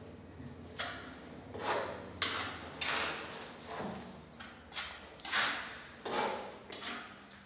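A mason's trowel working mortar on brick: a string of short irregular scrapes and knocks, roughly every half second, as mortar is spread and the brick is tapped into place.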